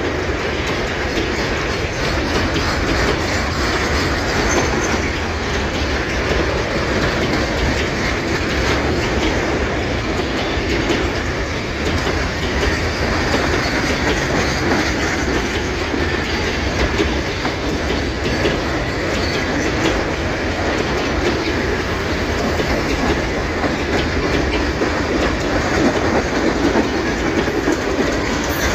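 Empty grain hopper wagons of a freight train rolling past, wheels clattering steadily over the rail joints, with a faint wheel squeal.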